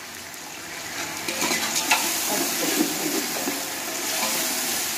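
Tomatoes, green chillies and spices sizzling in hot oil in a metal pot, with a metal spoon stirring and scraping against the pot. The sizzle gets louder about a second in as the mix is stirred.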